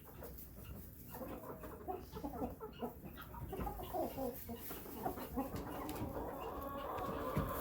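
Several chickens clucking with many short, overlapping calls, growing a little louder toward the end.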